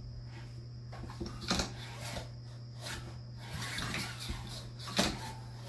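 A few short, light knocks of objects being handled, the clearest about a second and a half in and again near the end, over a faint steady hum; no engine is running.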